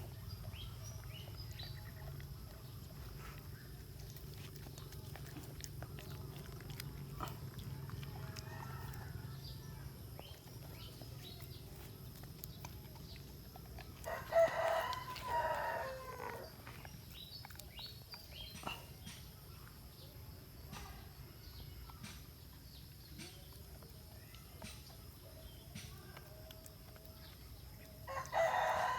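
A rooster crowing twice, each crow about two seconds long, once around the middle and again near the end.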